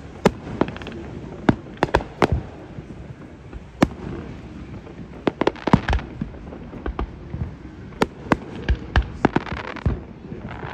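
Fireworks display: irregular sharp bangs, spaced out at first and coming thicker from about five seconds in, with a dense crackling patter near the end.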